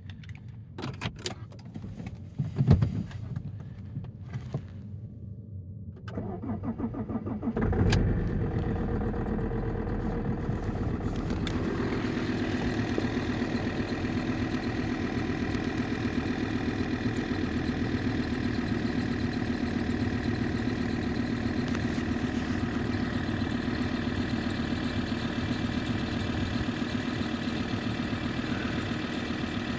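A few clicks and a loud knock, then the Alfa Romeo 159 2.4 JTDm's five-cylinder common-rail turbodiesel is cranked briefly and catches about eight seconds in. It settles into a steady cold idle. This is a cold start with a newly fitted fuel rail pressure sensor, and the engine starts promptly.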